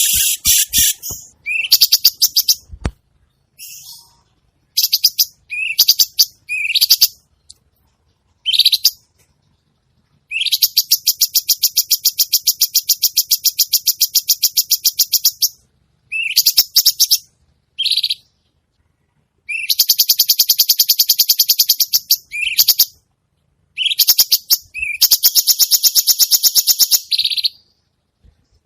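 Songbird song made of harsh, rapid 'kasaran' notes. Short sharp high chirps and whistles alternate with three long, very fast trills of evenly repeated notes, several seconds each: about 10 seconds in, about 19 seconds in, and about 24 seconds in.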